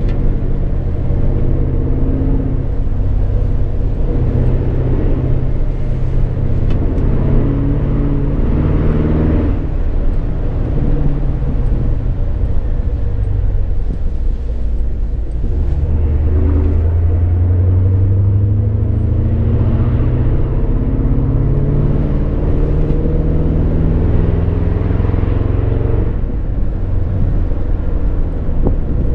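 Ford Mustang's engine heard from inside the cabin, pulling along a winding road. Its note climbs under acceleration, drops back about ten seconds in, climbs again for a long stretch and falls off near the end.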